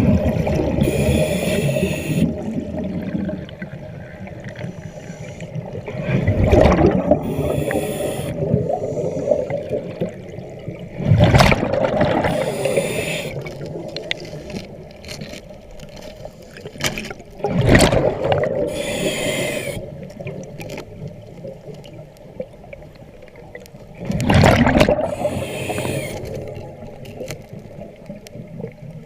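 A scuba diver breathing underwater through a regulator: a hiss on each inhale and a burst of exhaust bubbles on each exhale, one breath about every six seconds, over a faint steady hum.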